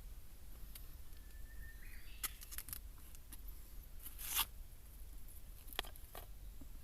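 Close handling noises: a few light clicks and crinkles, then a short tearing rustle about four seconds in, and two more clicks near the end.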